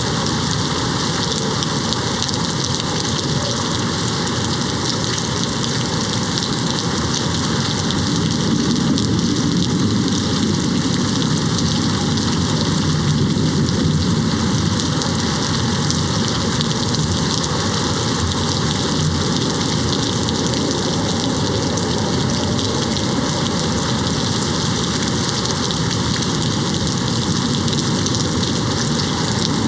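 Steady rain hitting a window, with a low rumble of distant thunder swelling and fading near the middle.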